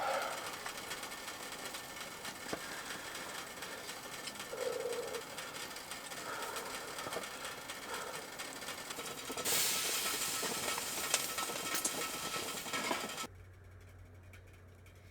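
Wood campfire crackling and hissing, with scattered sharp pops. About two-thirds of the way in, a louder hiss rises for a few seconds, then the sound cuts off abruptly to a low steady hum.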